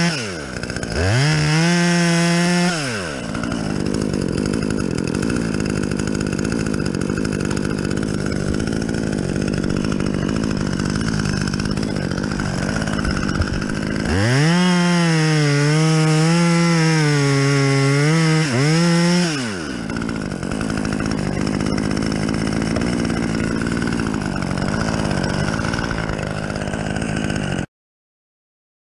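Chainsaw revving up to full throttle twice, briefly near the start and for about five seconds midway, and running at a lower speed in between. The sound cuts off abruptly near the end.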